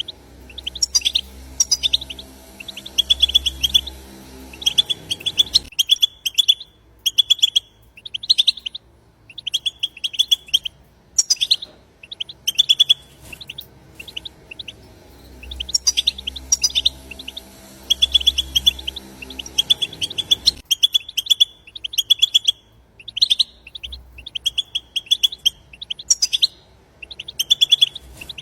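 European goldfinch twittering: the rapid, chattering 'batbata' song, in bursts of quick high notes with short gaps between them. The same passage repeats after about fifteen seconds, with a faint low hum under the first part of each pass.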